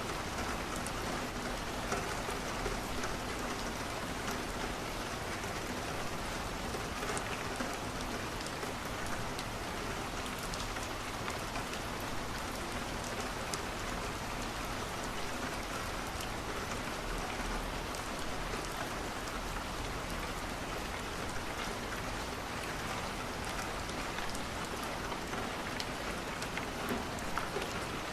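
Steady rain falling on a window, with scattered sharp ticks and crackles of a wood fire burning in a fireplace.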